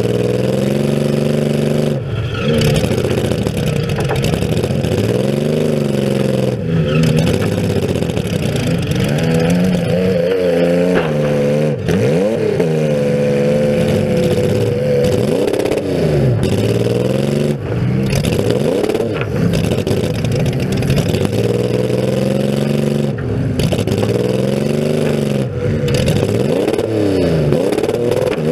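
Compact demolition derby car's engine, open-piped through short upright exhaust stacks, revving up and falling back over and over as it is driven. The sound cuts out briefly several times, with some scraping and clatter.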